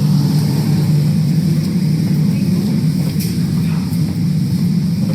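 Steady low rumble of a vehicle in motion, heard from inside, with no change in pitch or level.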